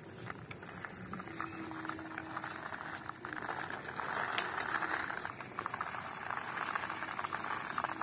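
Plastic toy bulldozer truck rolling along, its wheels and gears giving a steady fine crackling rattle that swells around the middle.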